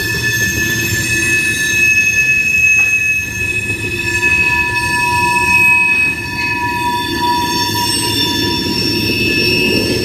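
Freight train tank cars rolling past with a continuous low rumble, the wheel flanges squealing in several steady high-pitched tones as the cars take a curve in the track.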